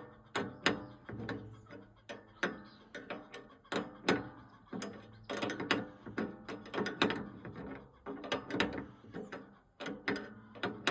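Hand tools working on an old tractor during a belt change: irregular metallic clicks, rattles and clanks, with sharper knocks scattered throughout.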